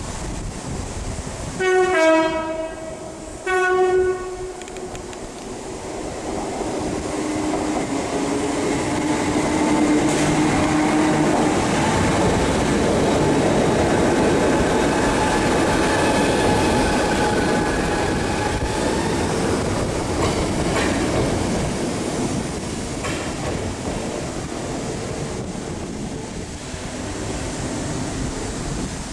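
A train sounds its two-tone horn twice: a high-then-low blast, then a shorter second one. The train then gets under way, its running noise and wheels on the rails building to a steady, loud passage for several seconds before easing off.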